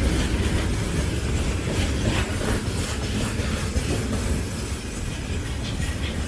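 Freight train rolling past: a steady low rumble with irregular clacks of wagon wheels over the rail joints.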